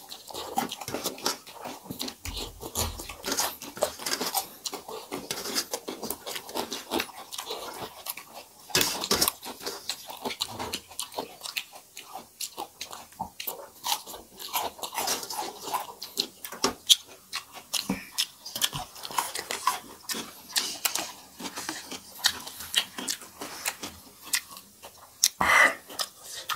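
Close-up eating sounds: wet chewing and smacking with frequent short crunches from biting a crisp raw salad slice, and fingers working rice off steel plates.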